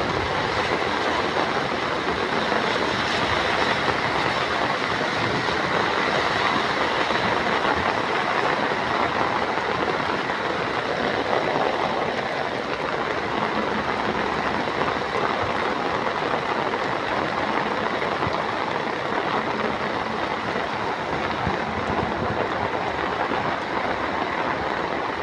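Steady rushing of water in a flooded street, a dense even wash of noise with no breaks.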